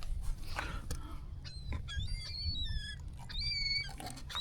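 A flock of feeding seabirds calling overhead: a flurry of short, high, thin calls, several overlapping and sliding down in pitch, starting about a second and a half in, over a steady low rumble.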